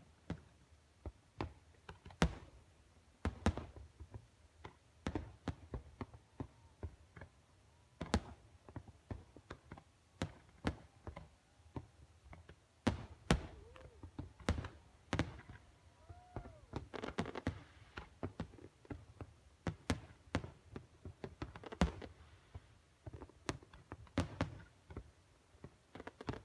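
Fireworks going off: an irregular run of bangs and pops, with several sharper, louder blasts among them.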